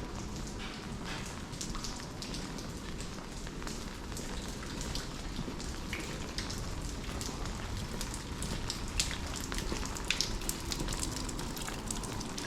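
Steady rain falling, with many sharp drip taps scattered through it, more of them near the end, over a low rumble.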